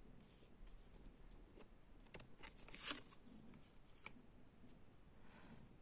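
Near silence: room tone with a few faint short clicks and rustles, the clearest about three seconds in.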